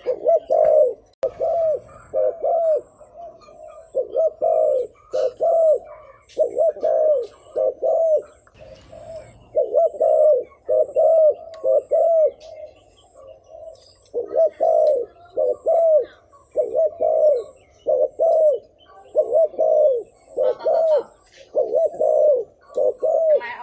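Spotted dove giving fast, repeated bowing coos ('thúc gù'): low arched coo notes in clusters of two or three, about two a second, with a short break midway.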